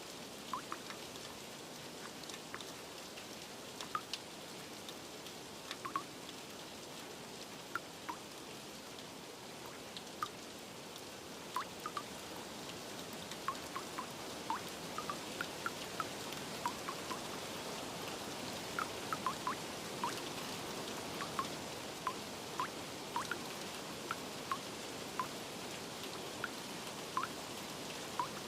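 Steady rain hiss with irregular water drops plinking, one or two every second or so, growing a little busier and louder in the second half.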